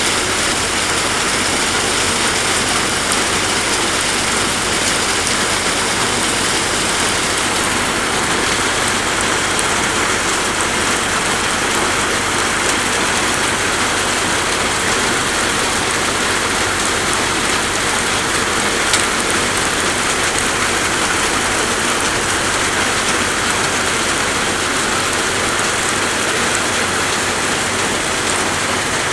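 Steady rain falling, an even hiss, with one brief tick about two-thirds of the way through.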